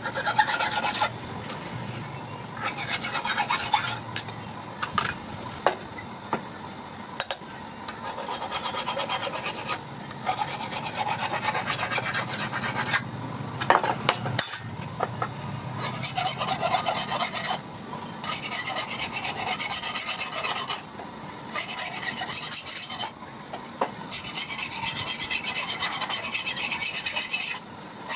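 Steel being filed by hand: a scratchy rasping scrape in runs of one to a few seconds, stopping briefly between runs.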